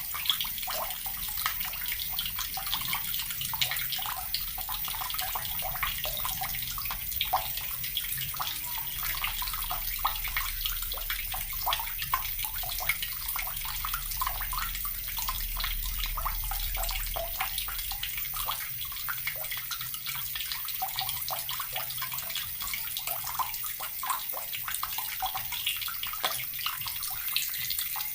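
Water running steadily from a tap and splashing onto a hard surface below, a continuous hiss full of small splashes.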